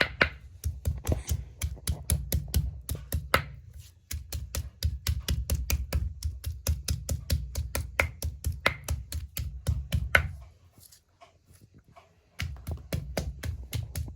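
Rapid, even chopping with a knife on a board, about five strokes a second, most likely onion, garlic or meat for momo filling. It stops for about two seconds near the ten-second mark, then starts again.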